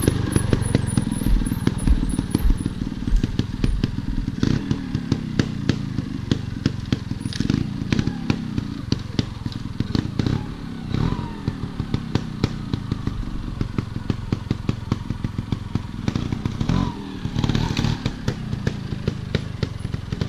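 Off-road motorcycle engine running while the bike rides over rough ground, with many short knocks and rattles throughout.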